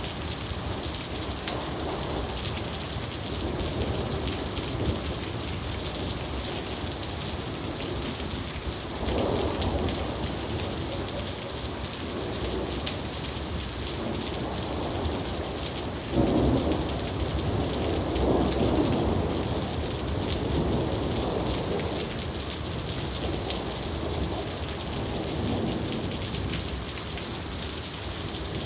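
Steady heavy rain falling, with rolls of thunder rumbling through it; the loudest clap breaks suddenly about two-thirds of the way in and rumbles on for several seconds.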